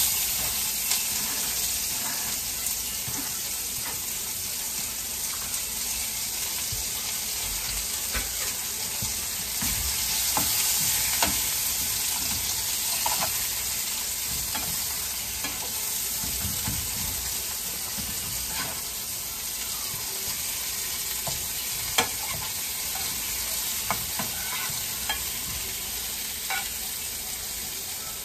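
Sliced onions and potatoes sizzling steadily as they fry in hot bacon grease and oil in skillets, with a few sharp clinks of a fork against the pan.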